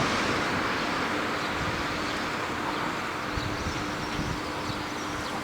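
583-series electric train running, a steady rushing noise that slowly eases off, with a steady low hum coming in about a second in.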